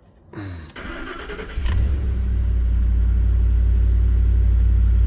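2010 Ford F-150's 5.4-litre V8 cranking for about a second, catching and settling into a steady idle, and it keeps running. The owner takes this as confirmation that a bug sucked onto the mass airflow sensor was behind its start-and-stall.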